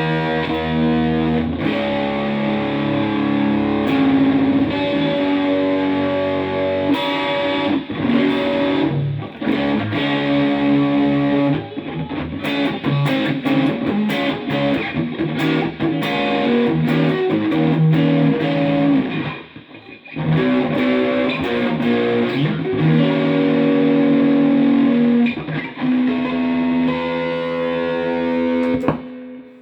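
Electric guitar played through an amplifier: held chords and quicker picked notes, with a short break about twenty seconds in.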